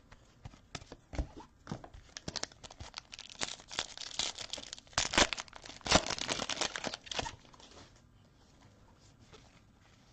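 Wrapper of a football trading card pack being torn open and crinkled, a dense run of crackles that is loudest about four to seven seconds in and stops about a second later.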